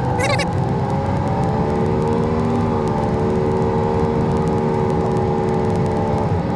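Toyota LandCruiser 79 Series driving, a steady engine and road drone. The pitch lifts slightly about a third of the way in and drops briefly near the end as the engine eases off.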